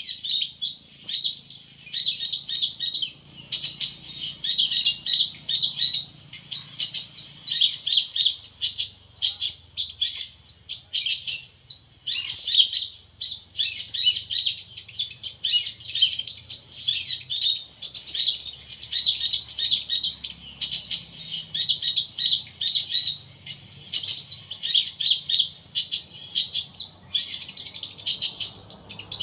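Small birds chirping and twittering rapidly and almost without pause in high, quick notes, over a steady high-pitched buzz.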